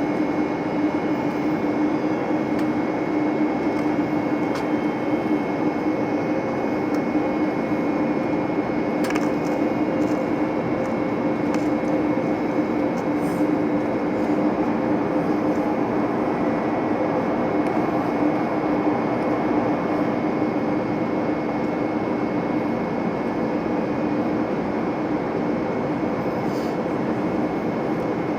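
Steady cabin drone of an Airbus A321neo airliner in flight, engine and airflow noise with a steady low hum.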